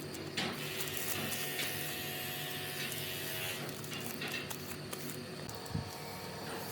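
A small electric motor running steadily with a constant buzz, with a light knock or two.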